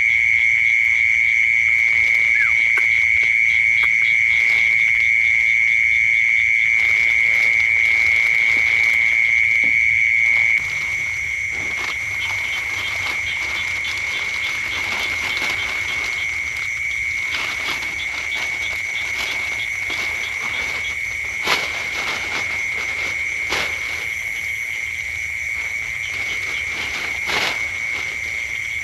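A dense, steady high-pitched chorus of calling animals, a continuous trilling drone. It drops in level about a third of the way in, and a few sharp clicks come in the second half.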